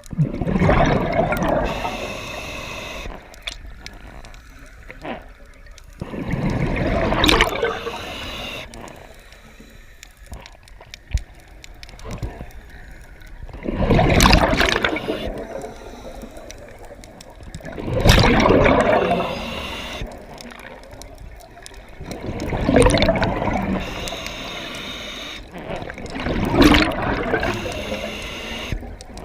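Scuba diver breathing through a regulator under water: exhaled bubbles gurgle out in six surges, one every four to five seconds, with quieter hiss between breaths.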